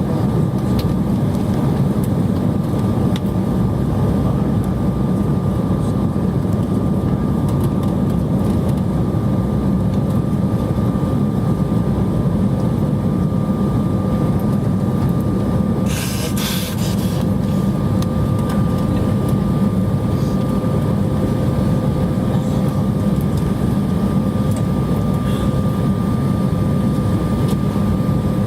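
Jet airliner cabin noise heard from a window seat during the descent: a steady low rumble with a faint steady whine over it. A brief hiss about halfway through.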